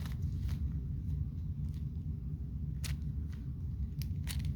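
Plastic puzzle cube being turned by hand: scattered sharp clicks of the layers snapping round, over a steady low rumble of handling noise.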